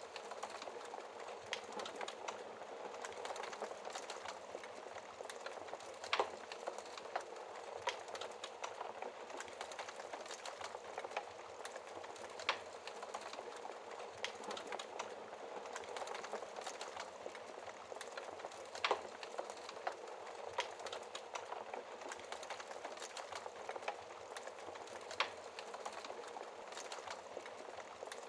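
Wood fire crackling in a fireplace: a steady hiss of burning, with constant small crackles and a few louder pops.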